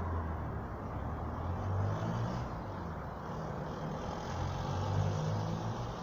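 Steady low rumble of vehicle engine and road noise that swells and eases slightly.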